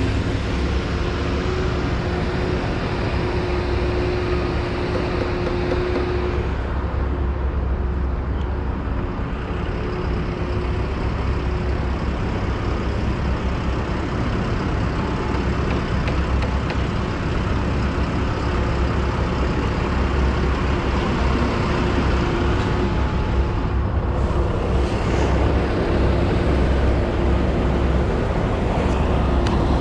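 Heavy vehicle engine running steadily at idle: a continuous low rumble with a faint steady hum above it.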